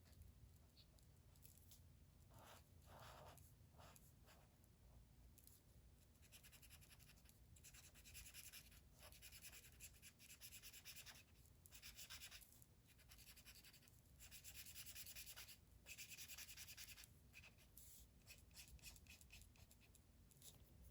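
Faint scratching of a colouring tool rubbing back and forth on paper while filling in an area with colour, in quick runs of strokes that grow busier after the first few seconds.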